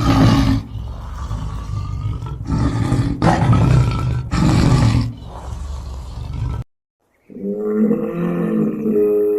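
Animal sound effects: a large animal's deep, rough roars in several loud surges for about six and a half seconds, then cut off. After a short gap a different animal gives one long, steady, pitched call.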